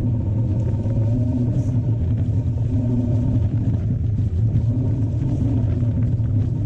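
Steady low rumble of wind and trail noise on a camera carried on a moving mountain bike, with a hum that swells and fades every second or so.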